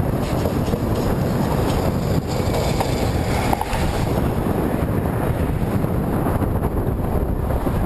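Wind buffeting the microphone in a steady, loud rumble while moving into a headwind.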